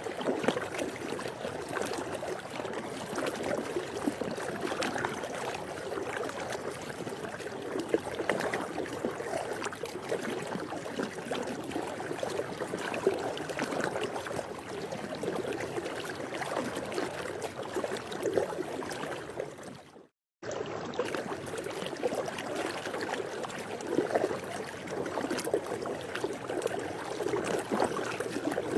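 Water moving in a swimming pool: a steady lapping and trickling wash, briefly cutting to silence about twenty seconds in.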